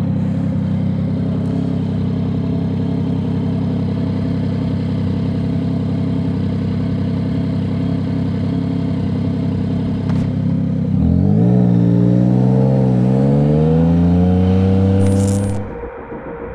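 Motorcycle engine running steadily at low revs. About two-thirds of the way through it gets louder and rises in pitch, wavering as it accelerates, then drops away suddenly near the end.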